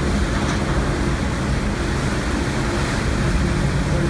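SS Badger's Skinner Unaflow steam engines running full astern: a steady low rumble mixed with the churning water of the propeller wash.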